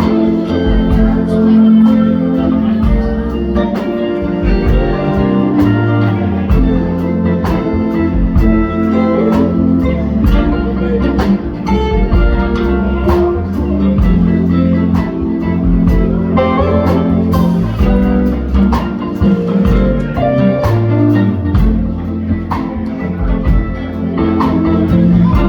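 Live band playing an instrumental passage: guitar over bass and drums, with a steady beat and no singing.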